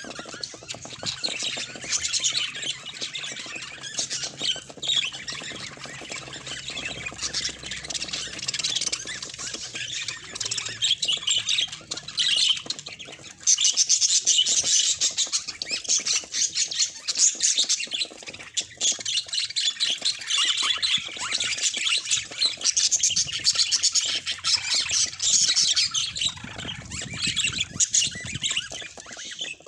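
Budgerigars chattering continuously in quick high-pitched warbles and squawks, getting louder about halfway through.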